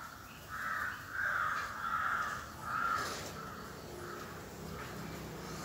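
A bird calling outdoors: about four harsh, raspy calls in quick succession over the first three seconds, then a few fainter ones.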